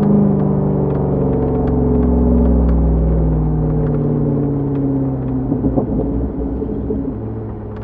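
Chevrolet Corvette C6's 6.0 L LS2 V8 through a Borla exhaust, recorded on the move from a mic in the trunk. The engine note falls slowly for about five seconds, goes briefly rough and unsteady, then settles into a steady drone.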